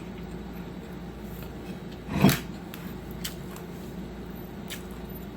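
A single loud crunchy bite into a fried plantain (tostón) about two seconds in, followed by a few faint chewing clicks.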